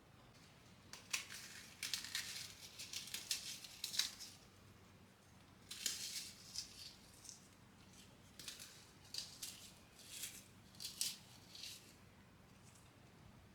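Faint, crisp handling sounds, rustling and scraping, in three clusters of quick strokes with short pauses between.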